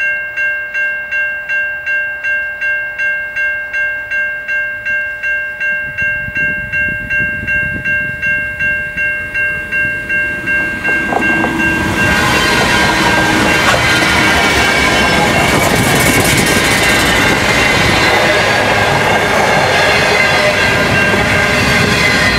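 Level crossing bell ringing about twice a second while a freight train's rumble grows. About twelve seconds in, the train's lead diesel locomotives pass close by and a loud, steady rumble and clatter of the wagons' wheels on the rails takes over and covers the bell.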